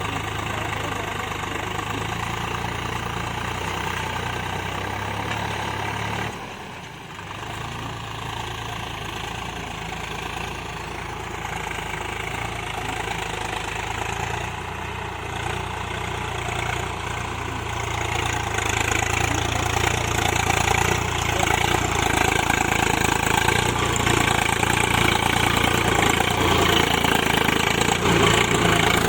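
Swaraj 744 tractor's three-cylinder diesel engine running, dipping briefly about six seconds in, then growing louder from about eighteen seconds on.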